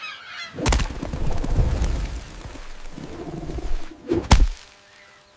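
A sudden heavy boom, then a low rumbling with crackle, then a second sharp boom about three and a half seconds later.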